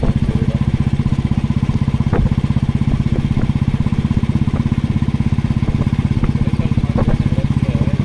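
Motorcycle engine running steadily under way, with an even, rapid low pulsing.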